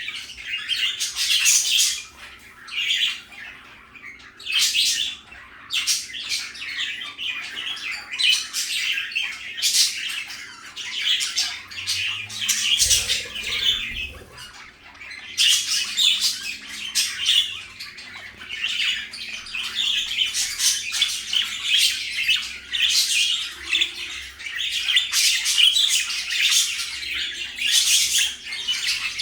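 Budgies (pet parakeets) chattering and chirping continuously, a busy warble of quick squawks and tweets, with a short lull about halfway through.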